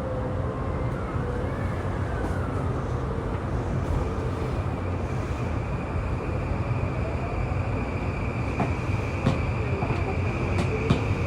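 A JR East E235-1000 series electric train running between stations, heard from inside the car: a steady rumble of wheels on rail with a few sharp clicks. Over it a faint motor whine slowly glides up and down in pitch, and a steady high whine comes in about four seconds in.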